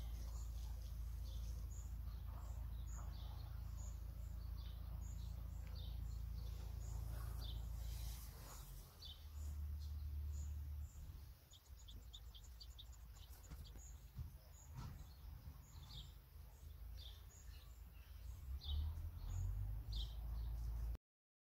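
Small birds chirping outdoors, many short high calls scattered through, over a low steady rumble; the sound cuts off suddenly near the end.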